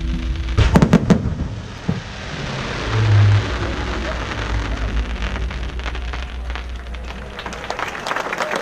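Fireworks display: music cuts off just after the start, then a few sharp bangs, a deep thump about three seconds in, and a long stretch of dense crackling from crackle effects. Crowd applause begins near the end.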